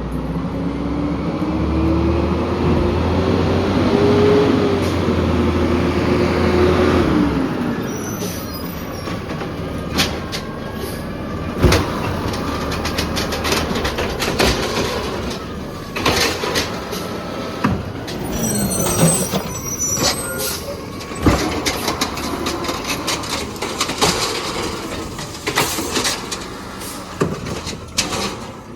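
Peterbilt 320 garbage truck's engine revs up with a rising tone for about seven seconds and then drops back. Scattered sharp clanks and bangs of metal and plastic follow, typical of the arm-and-clamp loader handling and dumping a cart. There is a brief high squeal about two-thirds of the way through.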